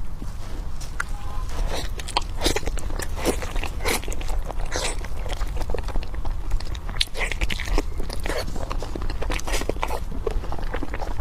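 Close-miked biting and chewing of pork, with irregular crunches and wet mouth clicks, over a steady low hum.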